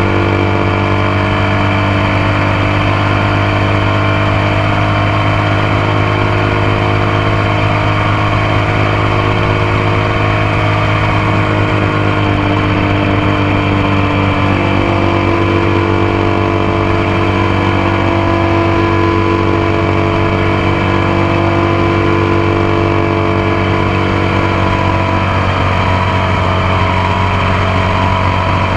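Motorcycle engine running steadily under way, picked up close from the passenger foot peg, with small shifts in pitch about halfway through and again near the end.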